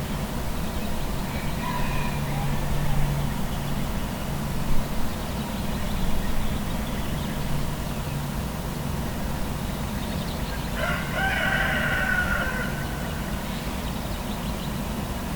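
A rooster crows once, about two-thirds of the way through, for about two seconds, over a steady low traffic rumble. A fainter call comes earlier, about two seconds in.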